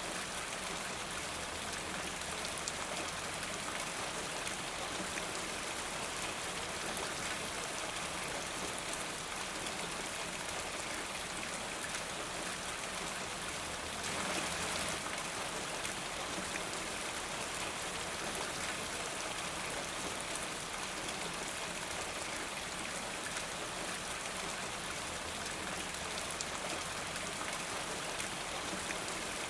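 Steady rain falling, an even hiss of drops, swelling briefly a little louder about halfway through.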